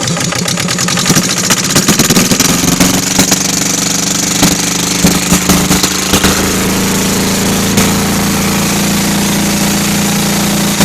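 Kohler KD425-2 two-cylinder diesel engine running just after starting, uneven at first with irregular loud knocks as it picks up speed. From about seven seconds in it settles into a steady, even run.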